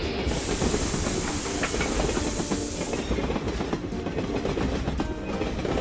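Train passing with wheels clattering over the rails, and a loud high hiss that lasts for the first few seconds.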